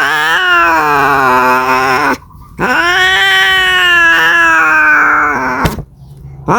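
Cat yowling: two long drawn-out calls, the first sliding down in pitch, the second rising then slowly falling, with a third starting at the very end. A caterwaul of a cat calling for a mate.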